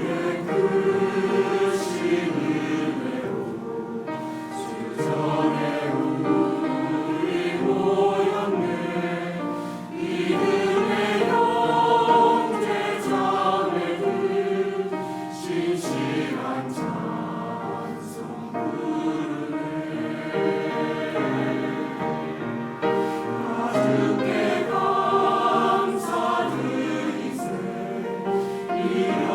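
Church choir singing a hymn of thanksgiving in continuous, sustained phrases.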